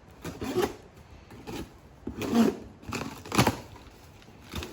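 Cardboard packaging being handled and opened: a handful of irregular scrapes, rustles and knocks of the box, the loudest about two and a half and three and a half seconds in.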